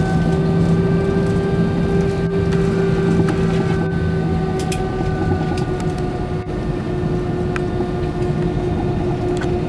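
Airbus A320 cabin noise on the ground: a steady rumble with several steady whining tones from the engines at idle, which drop slightly in pitch after about five seconds, and a few light clicks and rattles from the cabin.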